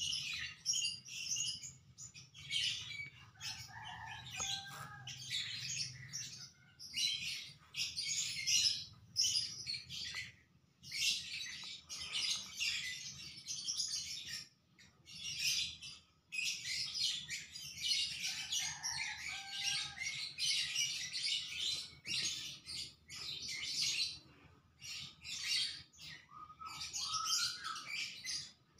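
Small birds chirping and twittering in dense, rapid bursts, with a few lower sliding calls about four seconds in, around nineteen seconds and near the end.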